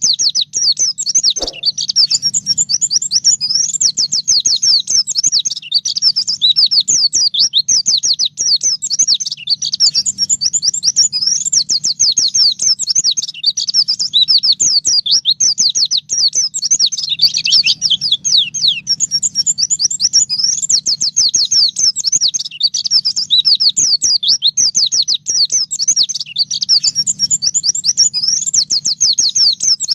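Pleci (white-eye) singing a continuous fast, canary-like song of quick descending high notes, without a break.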